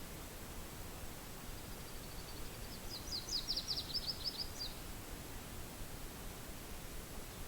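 Steady wind hiss, with a small songbird singing one rapid series of high notes in the middle: faint at first, then louder for over a second before it stops.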